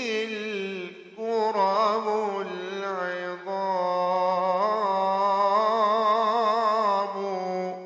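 Solo male voice chanting an Islamic ibtihal (supplication), a long melismatic passage of held notes with strong vibrato and no accompaniment. The voice breaks off near the end and its reverberation fades away.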